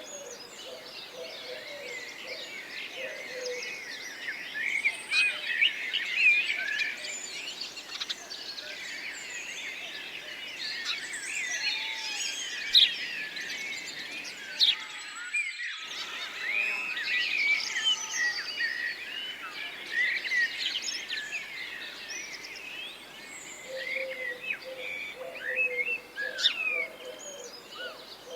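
A chorus of many small songbirds chirping and trilling over one another, with a brief break about halfway through. Near the end a low, repeated hooting call joins in.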